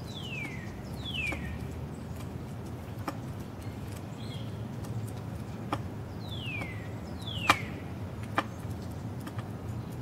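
A bird calling outdoors in pairs of clear whistled notes, each sliding down in pitch: one pair at the start and another about six and a half seconds in. A few sharp clicks fall between them.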